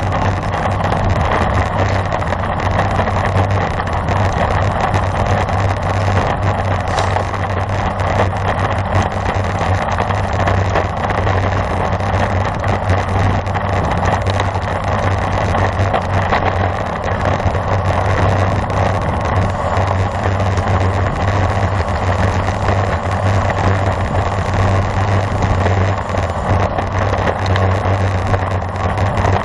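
Steady rush of wind and road noise on the microphone of a camera riding along on a road bicycle at race speed, with a constant low hum.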